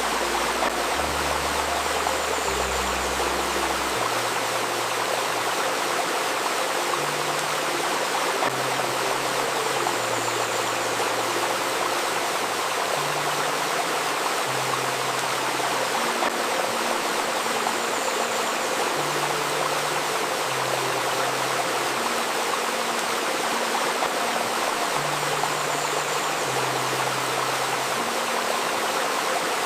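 Stream water flowing steadily, with soft low synthesizer notes beneath it that change every second or two.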